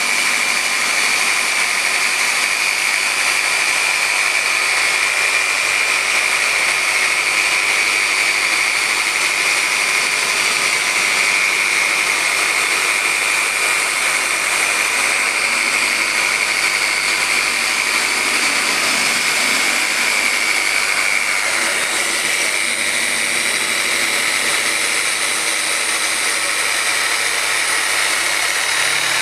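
Dynabrade random orbital polisher with a microfiber pad running steadily on car paint, a high whine over a hiss, removing 4000-grit wet-sanding marks with polish. The whine drops slightly in pitch about two-thirds of the way through.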